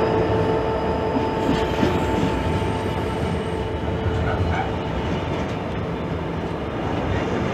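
Freight train hauled by a Class 66 diesel locomotive rolling past, a steady rumble of wheels on rail with a thin whine that fades out a few seconds in, the whole sound slowly getting quieter.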